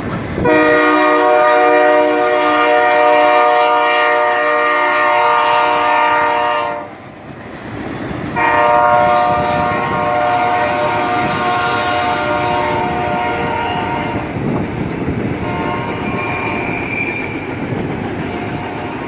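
Diesel freight locomotive's multi-chime air horn sounding two long blasts of about six seconds each, with a short fainter blast after them, over the rumble of the passing train.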